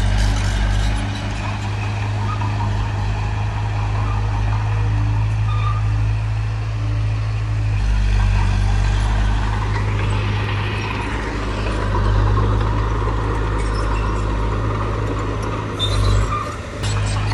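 Diesel engine of heavy earthmoving machinery running steadily at a low pitch, with a short clatter near the end.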